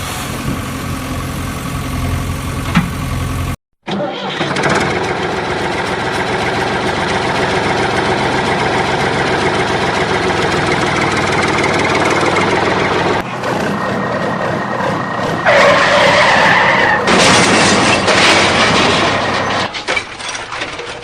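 Vehicle engine sounds in several spliced pieces with abrupt cuts. A steady engine hum stops dead about three and a half seconds in. After a moment of silence comes a long stretch of rougher engine noise, then shorter pieces with a high steady whine in the middle.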